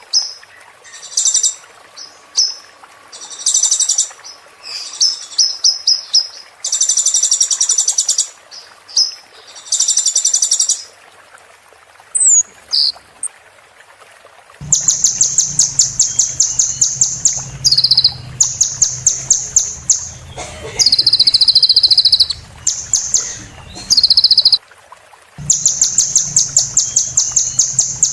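Sunbird singing: fast, high trills of rapidly repeated notes in phrases about a second long, over and over with short gaps. From about halfway through, a steady low hum runs underneath the song.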